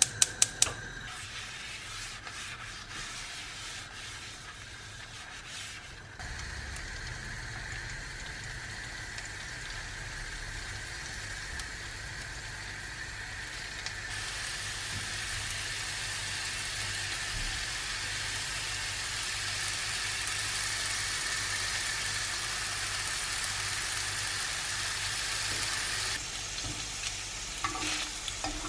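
Thin potato slices sizzling in a shallow layer of olive oil in a nonstick frying pan: a steady hiss that grows louder about midway. A quick run of sharp clicks at the start, and a few light clicks near the end as metal tongs touch the pan.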